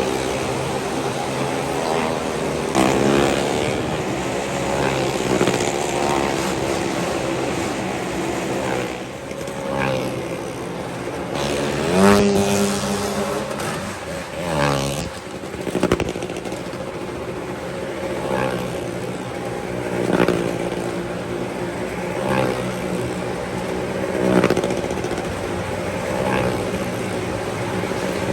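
Motor vehicle engines running and passing, with pitches sliding up and down as they speed up and slow down.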